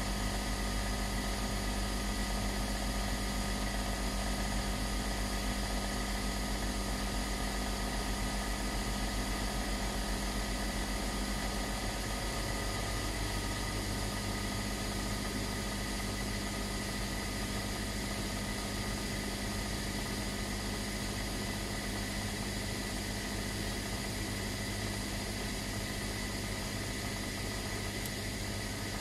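Gas heater running: a steady hiss of gas flowing through the burner over a low hum, with no ignition clicks.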